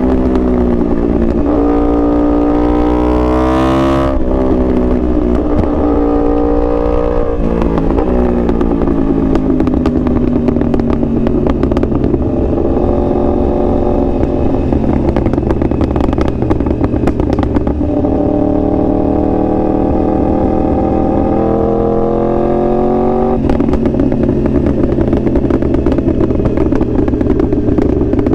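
2021 Yamaha R1's crossplane inline-four under hard acceleration. The pitch climbs through the revs and drops sharply at upshifts about four and eight seconds in, then falls away as the bike slows, holds steady, and climbs to another shift near the end. A steady low rumble runs underneath.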